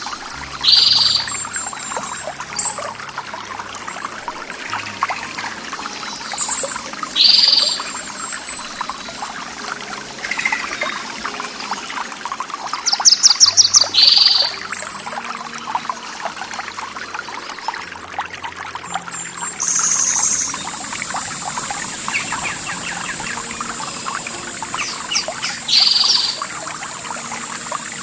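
Steady running and trickling water of a stream, with birds calling over it: a short call repeated about every six or seven seconds and a rapid trill about halfway through, the loudest sound. A steady high-pitched tone joins about two-thirds of the way in.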